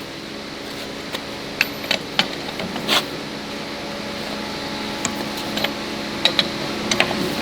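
A machine running with a steady hum, slowly getting louder, with scattered sharp metallic clicks and taps over it.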